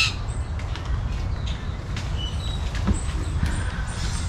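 Woodland bird ambience: a few short, faint chirps and calls of wild birds over a steady low rumble.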